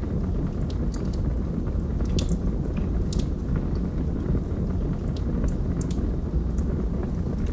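Wood logs burning in a fireplace: a steady low rumble of flame with scattered sharp crackles and pops, several of them clustered around the second and third seconds and again near the six-second mark.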